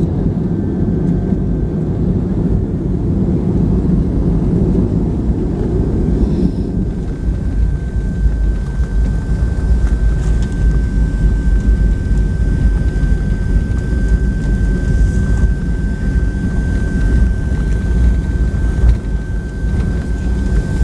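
Cabin noise of a Boeing 757 rolling out after landing: a loud steady rumble whose heavier roar eases after about six seconds. A thin steady high whine sets in about seven seconds in and holds.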